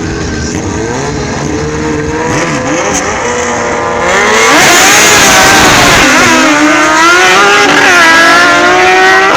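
Sport motorcycle engines accelerating hard at full throttle on a drag strip. The sound gets much louder about four seconds in, and the pitch climbs, drops at each gear change, then climbs again.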